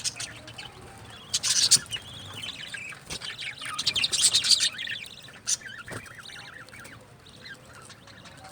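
Budgerigars chirping and chattering, in loud flurries about a second and a half in and again around four seconds in, then quieter chirps.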